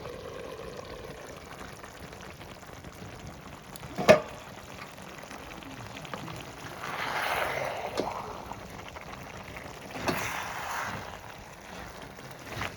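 A pot of chicken cooking: a low steady simmer, a sharp knock about four seconds in, then two swells of liquid, rushing noise later on.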